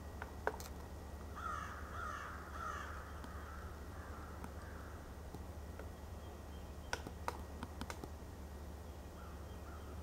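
A bird gives three harsh calls in quick succession about a second and a half in, with fainter calls later. A few sharp taps sound near the start and about seven seconds in, over a low steady background hum.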